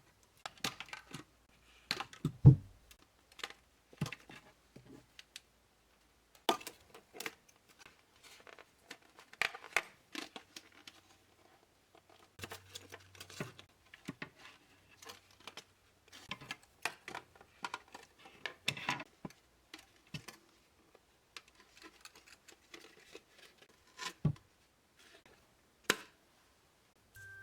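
A Barbie Looks doll's box packaging being opened by hand: irregular clicks and snaps with crinkling and tearing of plastic and cardboard. The loudest is a single knock about two and a half seconds in.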